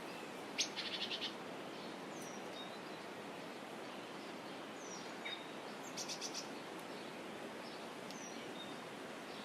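Wild songbirds calling over a steady outdoor background rush: short high falling whistles every few seconds, and a quick trill of rapid repeated notes about a second in and again about six seconds in.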